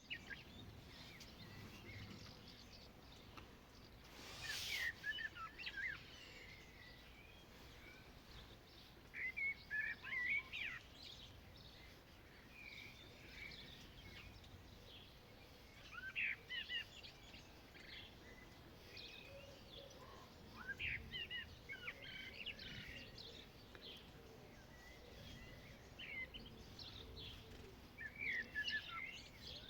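Garden ambience: songbirds chirping in short bursts every few seconds over a faint, steady background hum of outdoor noise, with one brief hiss about four seconds in.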